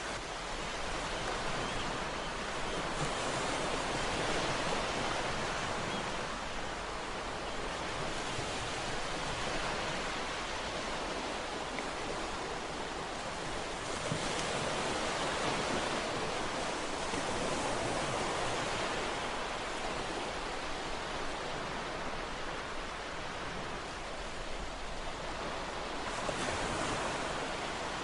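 Ocean waves breaking and washing on a shore, a steady roar of surf that swells and eases every few seconds.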